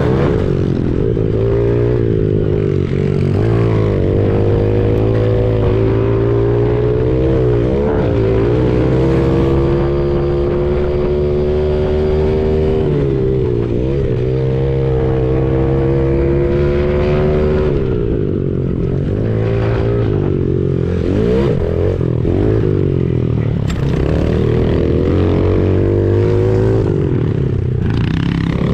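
Honda CRF70 pit bike's small four-stroke single engine heard up close from the bike, revving up and down over and over as the throttle is opened and closed, with the pitch dropping sharply at shifts and when the throttle is snapped shut.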